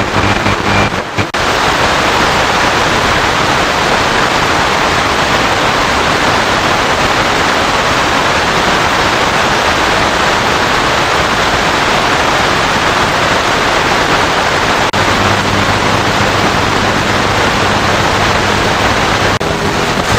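Radio receiver giving out a loud, steady hiss of static noise. A faint low hum comes in under the hiss about fifteen seconds in.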